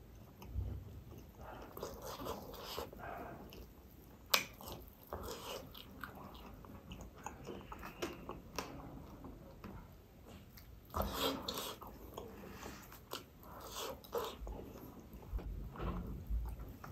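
A person chewing and biting roast chicken and rice eaten by hand, with irregular wet mouth sounds and smacks. One sharp click comes about four seconds in.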